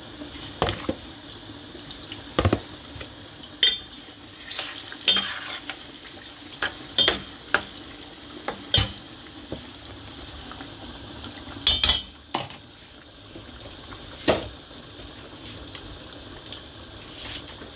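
Plantain slices frying in a stainless-steel pot of hot oil with a steady sizzle. A metal spoon clinks and scrapes against the pot every second or two as the slices are dropped in and stirred.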